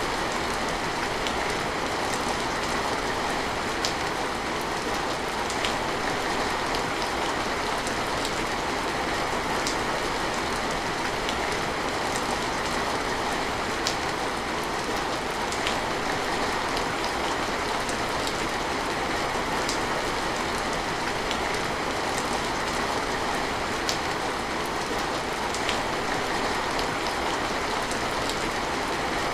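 Steady rain, an even patter of noise with scattered sharper drop ticks now and then.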